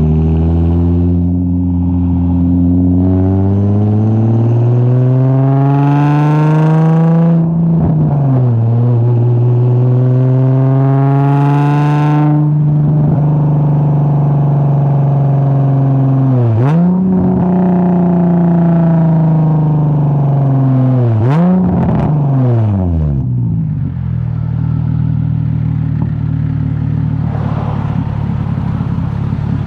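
Straight-piped Infiniti G35 V6 with a single-exit exhaust, accelerating hard. The exhaust note climbs in pitch and drops sharply twice at gear changes, then holds steadier. Twice more the revs dip and swing back up, before the engine settles to a low, steady note.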